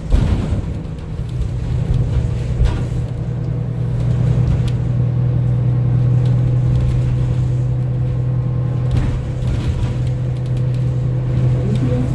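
Interior of a 2025 Gillig CNG city bus under way: the engine and drivetrain make a steady low drone. There is a sharp knock at the start and another about three seconds in.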